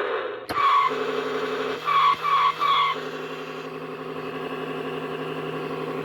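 Road Rippers Street Poundin' Sound toy Cadillac Escalade EXT playing its electronic driving sound effect through its small speaker: a steady engine hum with four short tire screeches in the first three seconds. A click about half a second in comes from a button being pressed.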